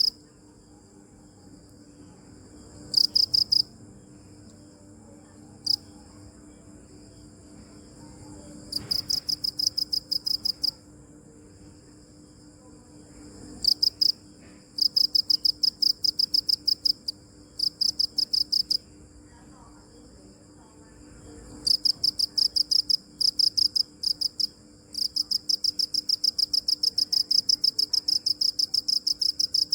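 A cricket chirping in bouts of rapid, evenly spaced high pulses with pauses between them; the bouts come more often toward the end and run unbroken for the last few seconds. A faint steady high whine lies beneath.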